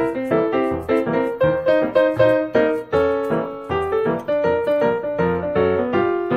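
Background piano music: a steady run of single notes, several a second.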